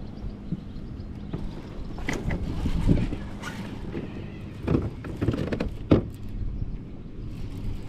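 Electric trolling motor of a motorised kayak humming steadily, with several knocks and rattles of gear against the hull.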